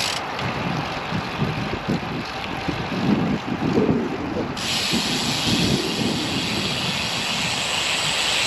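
Wind buffeting the microphone of a road bike on the move in gusty wind, with irregular low fluttering. A steady high hiss drops away just after the start and comes back about halfway through.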